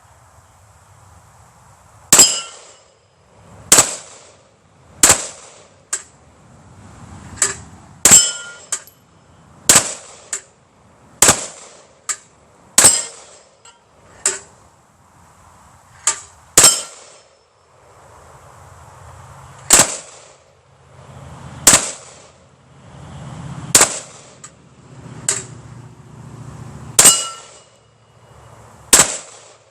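About eighteen gunshots at an uneven pace, one to three seconds apart, some in quick pairs. Many are followed by the short metallic ring of a hit on the steel plates of an Irish plate rack.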